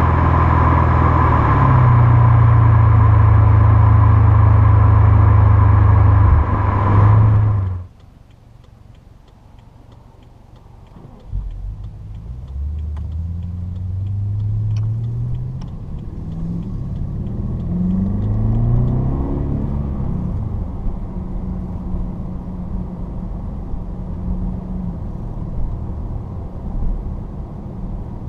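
Twin-turbo V8 of a 2013 BMW 750Li through Flowmaster 50 Series Delta Flow mufflers, driving at a steady drone with road noise, then cut off abruptly. After a few quiet seconds it pulls away and climbs in pitch through several upshifts before settling into a steady cruise.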